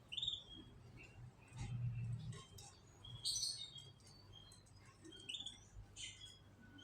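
Caged canaries giving short, scattered chirps and call notes, with a denser burst of chirping about three seconds in. A brief low hum sounds underneath around two seconds in.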